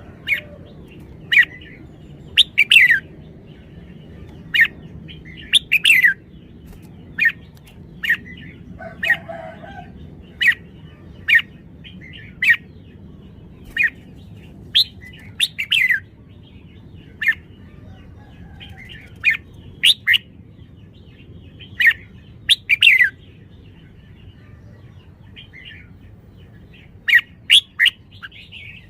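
Red-whiskered bulbul giving short, sharp chirping calls, irregularly spaced, sometimes two in quick succession, over a low steady background hum.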